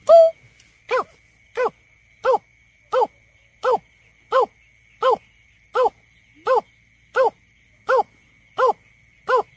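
Greater painted-snipe giving its low hooting call as a long even series of about fourteen short notes, roughly one every 0.7 seconds, each note falling slightly in pitch.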